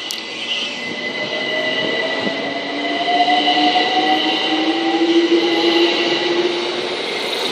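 London Overground Class 378 electric multiple unit moving through the station platform. Its running rumble carries several whining tones that slowly rise in pitch.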